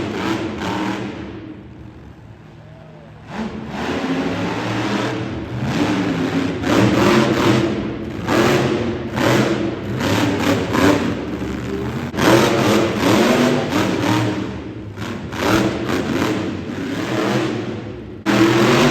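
Monster truck engine revving hard in repeated surges, easing off briefly about two seconds in before picking up again.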